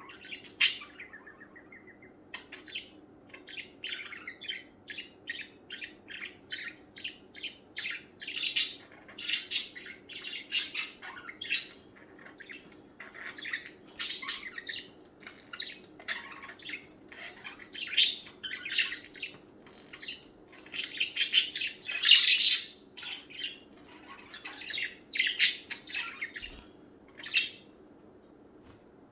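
Male budgerigar warbling: a rapid, running chatter of short chirps, clicks and squawks, with louder sharp notes here and there.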